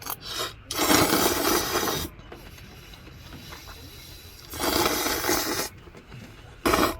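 Rough scraping or rubbing in four bursts: two long strokes of about a second each and two short ones, one near the start and one near the end.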